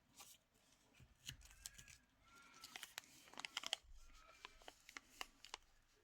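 Faint paper and card rustling and crinkling in short irregular scrapes and taps as loose pieces are handled and sorted through.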